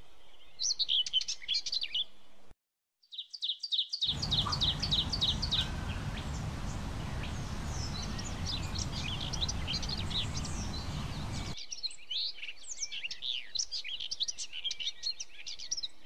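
Small birds chirping in quick, high trills, with a brief break about three seconds in. A steady low noise runs under the chirping from about four seconds in until about twelve seconds in.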